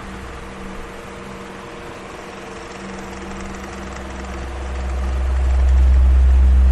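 Electric fan running with a steady whoosh of air and a low hum. The deep rumble of the airflow sinks early on, then swells back up to its loudest near the end.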